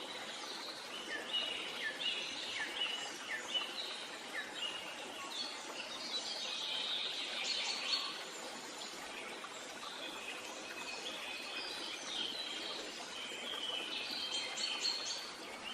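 Several wild birds chirping and singing, short quick notes that often fall in pitch, over a steady outdoor hiss; everything cuts off abruptly at the end.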